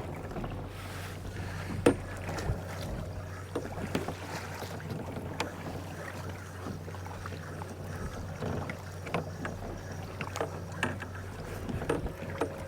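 Small boat sitting on calm sea: water lapping against the hull with scattered knocks and ticks, one sharper knock about two seconds in, over a steady low hum.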